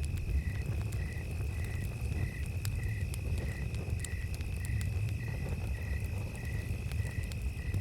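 Campfire crackling with sharp scattered pops over a steady low rumble, while crickets sing: one high, steady trill and a chirp that repeats about twice a second.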